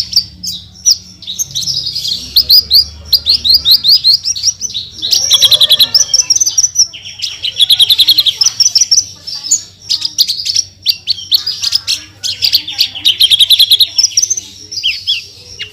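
Horsfield's bush lark (branjangan) singing a fast, high-pitched song of rapid repeated chirps and trills, delivered in dense bursts with only brief breaks.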